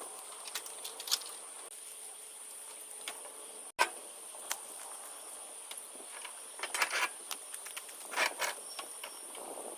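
Autumn insects chirring steadily in a continuous high trill, with a few brief clicks and rustles about halfway through and near the end.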